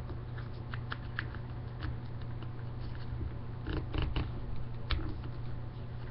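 A sheet of printer paper being handled and creased by hand while folding a paper airplane: scattered soft taps and rustles, a few close together about four seconds in, over a steady low hum.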